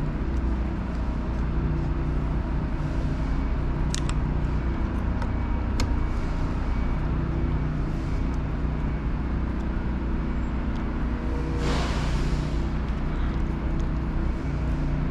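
A steady low hum throughout, with a few faint clicks and a short hiss about twelve seconds in.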